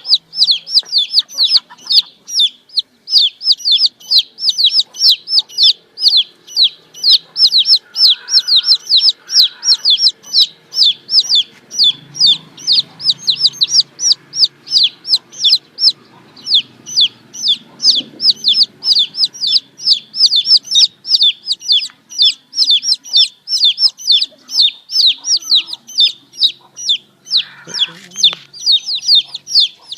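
Baby chicks peeping continuously: a dense stream of short, high-pitched calls, each sliding downward, about three to four a second.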